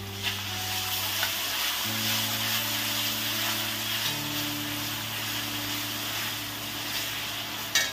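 Shredded vegetables sizzling in a black iron kadhai while a slotted steel spatula stirs and scrapes them, with one sharp knock of the spatula near the end. Soft background music with long held notes plays underneath.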